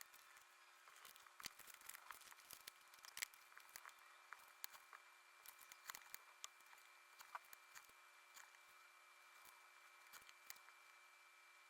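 Faint paper-crafting sounds: irregular small clicks, taps and brief rustles of paper being handled and cut, over a faint steady high tone.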